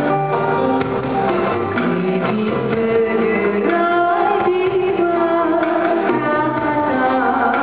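A live band playing a song, with a singing voice over the instruments and light percussion.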